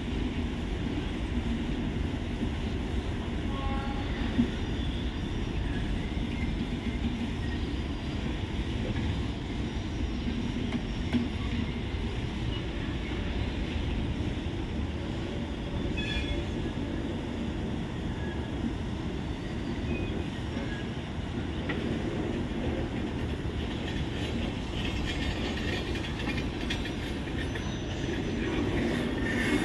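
Ahmedabad Superfast Express passenger coaches rolling past on the track, the wheels rumbling steadily on the rails. Two sharp knocks come through, and a few brief faint wheel squeals.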